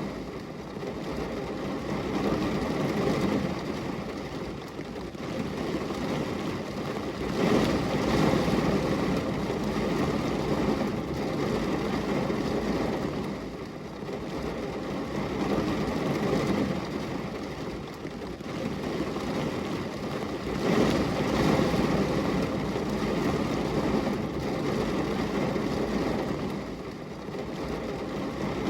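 Steady rain falling on a glass window, a dense even wash of noise with a low rumble, swelling louder about eight seconds in and again about twenty seconds in.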